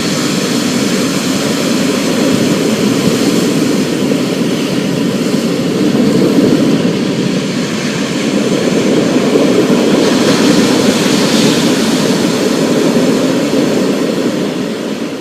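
Thunderstorm: a steady wash of rain with a low, rolling rumble of thunder that swells and eases.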